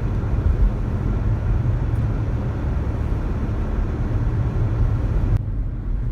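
Car driving slowly on a snowy road, heard from inside the cabin: a steady low rumble of engine and tyres with a hiss over it. The hiss drops out suddenly near the end, leaving the rumble.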